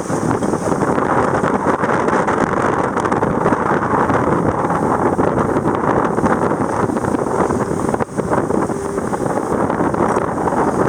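Steady wind noise buffeting the microphone on a sailboat at sea, with the wash of the sea beneath it.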